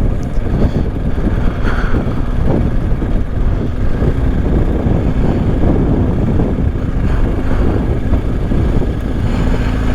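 BMW R1250 boxer-twin motorcycle engine running steadily, under heavy gusty wind noise buffeting the helmet-mounted microphone.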